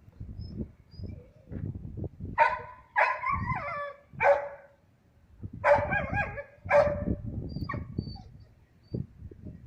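A dog whining and yelping: a string of short pitched cries, loudest between about two and eight seconds in, over a low rumbling noise.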